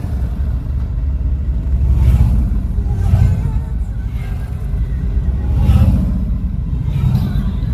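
A car driving along a road: a steady low rumble of engine and road noise that swells and eases slightly.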